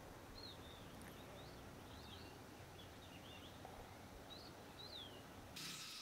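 Faint outdoor ambience of a forested mountain valley with small birds chirping, a dozen or so short high chirps. Near the end a louder, steady insect buzz of crickets or cicadas starts up.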